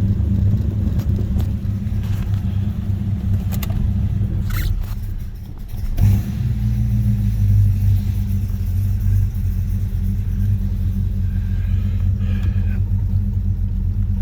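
A 1976 Oldsmobile Cutlass Salon's 455 Rocket V8 running steadily with a low rumble, heard from inside the cabin. The engine is still a little cold. A few light clicks come early on, and the level briefly dips about five seconds in before the engine sound changes slightly.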